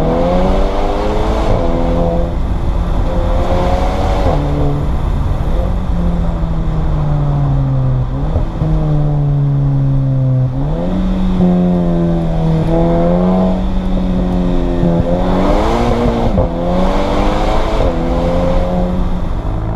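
Volkswagen Scirocco R's turbocharged 2.0-litre four-cylinder engine heard from inside the cabin, accelerating hard: the engine note climbs through the revs and drops at each gear change, several times over.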